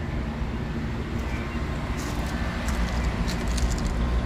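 1995 Lennox 7.5-ton heat pump package unit running in cool mode, with its dual Bristol reciprocating compressors giving a steady low hum under the even rush of air. A few light ticks come in around the middle.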